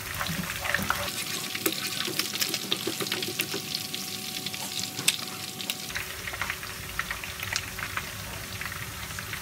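Diced onion and garlic sizzling in hot cooking oil in a nonstick wok, with scattered crackles and pops, stirred with a slotted skimmer.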